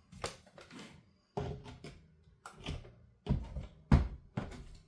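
Handling noise on a workbench: about ten sharp knocks, clicks and clunks of chainsaw parts and hand tools being picked up and set down, the loudest about four seconds in.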